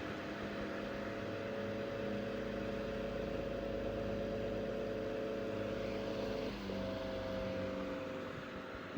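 Century Electric S2-10 desk fan running: a steady electric motor hum under the rush of air from the blades, with a brief dip and slight change in the hum about two-thirds of the way through.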